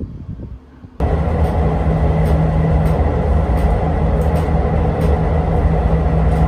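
Passenger train carriage heard from inside while running: a steady low rumble and hum with faint regular clicks. It cuts in suddenly about a second in, after a quieter first second.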